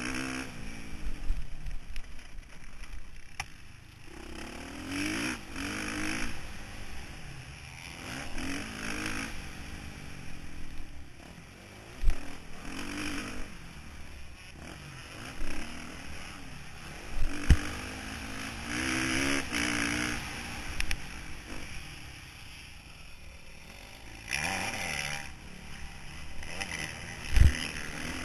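Motocross bike engine heard from an onboard camera, its pitch rising and falling again and again as the throttle opens and shuts. Three sharp low thumps stand out, about twelve, seventeen and twenty-seven seconds in.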